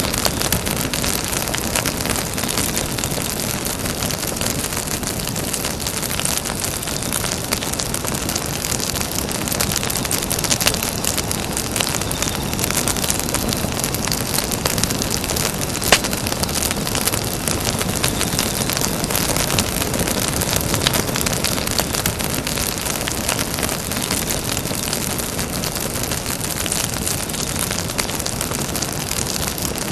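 Campfire burning with a steady rush and constant small crackles, with one louder pop about halfway through.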